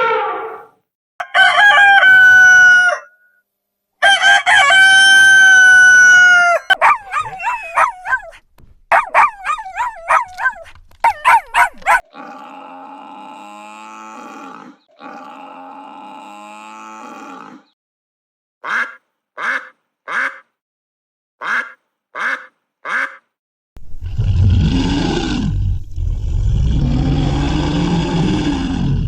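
A string of farmyard fowl calls one after another: long crowing calls typical of a rooster, rapid clucking, and a run of short honking calls about half a second apart. In the last few seconds a deep, rough animal call takes over.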